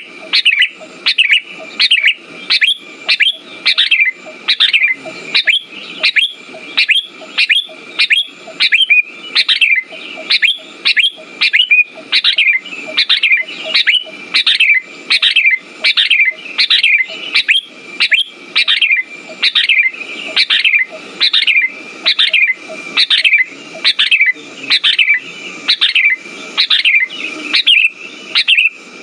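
Sooty-headed bulbul (kutilang) calls repeated evenly, about two short falling notes a second without a break, as in a looped lure recording meant to set silent kutilang singing.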